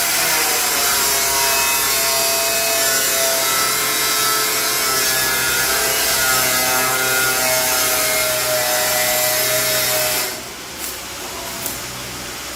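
A power tool running steadily under load: a whine of several held tones over a coarse grinding or cutting hiss, dropping quieter about ten seconds in.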